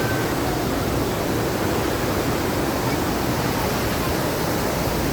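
Rushing, churning water of a river-rapids ride, a steady, even rush with no breaks.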